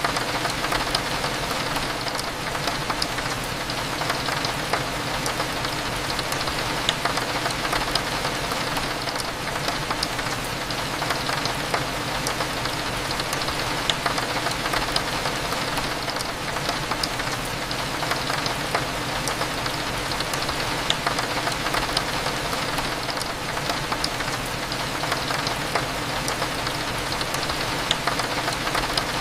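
Steady rain falling on a window, with many small drop ticks scattered through it, over a low, steady hum.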